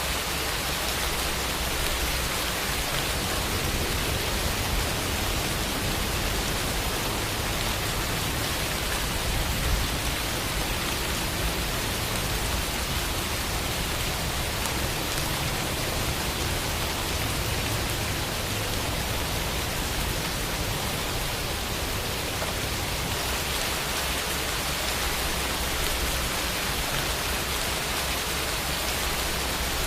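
Steady rain falling, an even hiss of drops with no other sounds.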